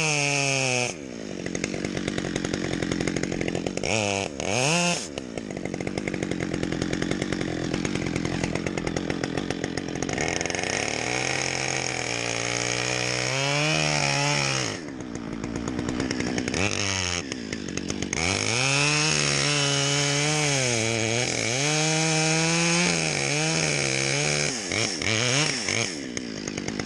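Chainsaw cutting out the face notch of a felling cut in a tree trunk, with the wedges already set in the back cut. The engine revs up into the wood and drops back toward idle several times between long cutting passes.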